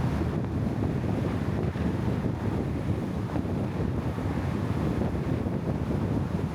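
Steady, gusting wind noise buffeting the microphone, a low rushing sound with no distinct events, as from travelling in the open air.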